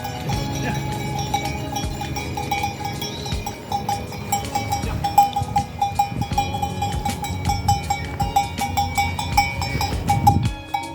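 Bells on a flock of sheep clanking irregularly as the animals move.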